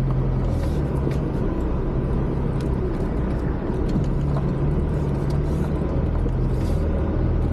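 Off-road 4x4's engine running under way, its note stepping up and down a few times, with a few light knocks.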